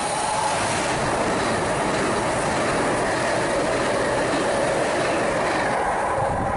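Southern electric multiple-unit passenger train running through the station at speed close by: a loud, steady rush of wheels on rail and air, with a faint ringing tone, easing slightly as the train clears near the end.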